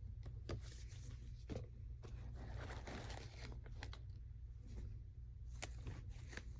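Packaging being handled: rustling and crinkling with a few sharp clicks, busiest in the middle, over a steady low hum.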